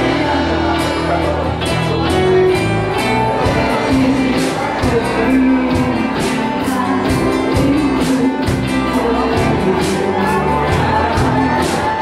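Live band playing a song: a drum kit keeping a steady beat under bass, electric guitars and keyboard, with a female lead voice singing.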